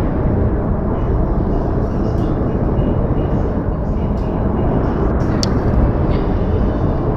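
Outdoor field-recording ambience of falling snow: a steady low rumble with a few faint ticks, fading out at the very end.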